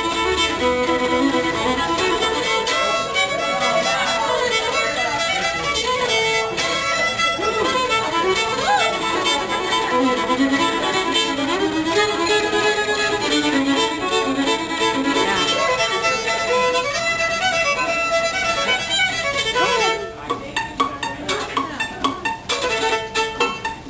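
Fiddle playing a melodic tune over other sustained accompaniment. About twenty seconds in, the sound thins out into short, separated notes.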